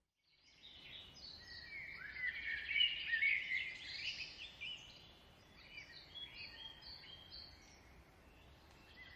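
Several small birds chirping and twittering over a faint steady hiss, busiest two to four seconds in and thinning out near the end.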